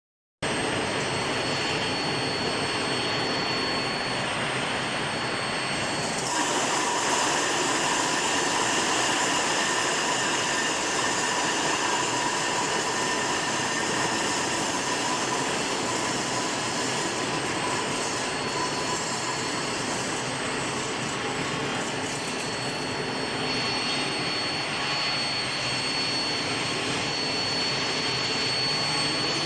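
Steel bar induction heat treatment furnace line running: a steady industrial noise with thin high whines held throughout.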